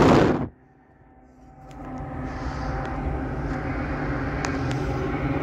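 A brief loud rush of noise at the very start, then a diesel commuter train's low engine rumble growing steadily louder as it approaches.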